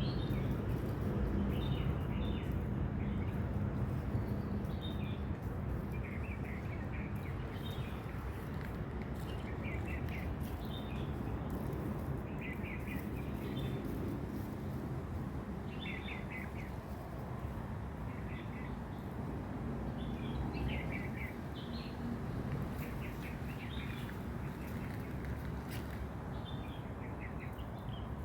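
Small birds chirping in short, scattered bursts over a steady low background rumble.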